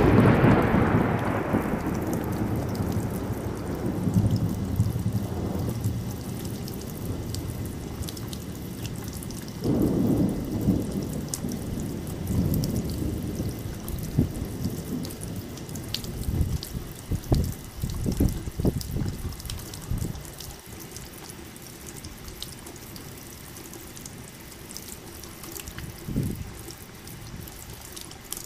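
Thunder rolling over steady rain and dripping water: a loud rumble at the start dies away over several seconds, and more rumbles follow around ten seconds in and again a little later. A fainter rumble comes near the end, while the rain thins toward dripping.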